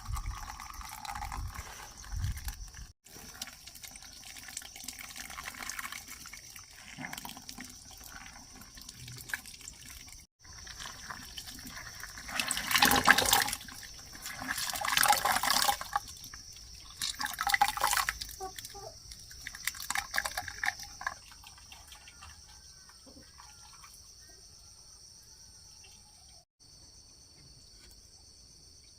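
Water splashing and pouring in several bursts, the loudest in the middle, over a steady high drone of insects.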